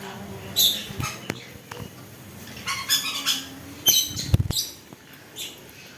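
Pet birds giving short squawks and chirps in scattered bursts, with a few sharp clicks and a low thump about four seconds in.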